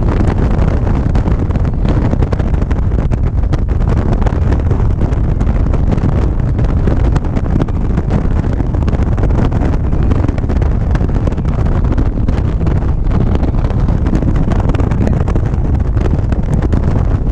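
Steady, loud wind buffeting on the microphone of a motorcycle riding at speed, with the bike's running and road noise underneath.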